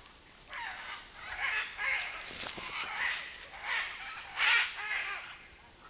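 Hyacinth macaws calling: a series of squawks, one every half second to a second.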